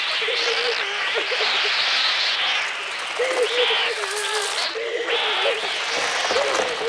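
A dense, continuous din of many birds shrieking and wings beating in a swarm attack. The cries are the film's electronically produced bird sounds.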